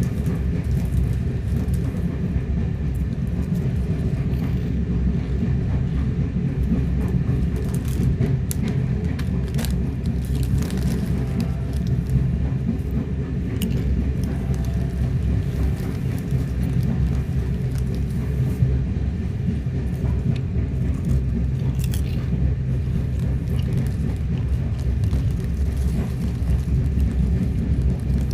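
Train's steady low rumble, with a low engine hum and a few faint clicks and rattles.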